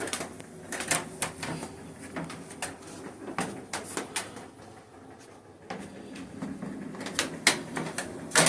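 Irregular sharp clicks and knocks, a dozen or more, over a faint low hum.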